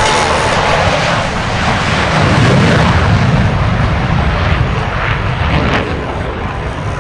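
An airplane flying past, its engine noise swelling to a peak about two and a half seconds in and then easing off.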